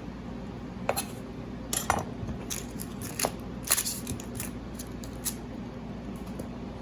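Scattered sharp clicks and light knocks, about a dozen at uneven intervals, over a steady low hum.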